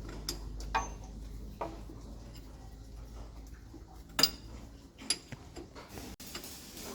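Scattered metallic clinks and taps of hand tools and steel parts, the loudest a little past the middle, over a low hum that fades in the first couple of seconds.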